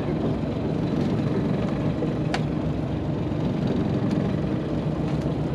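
Fishing boat's engine idling steadily, with one sharp click about two seconds in.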